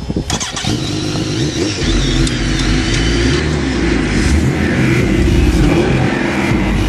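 Vehicle engine running hard at high revs in a drift run, over a loud, steady rush of noise, with a few sharp knocks in the first half-second.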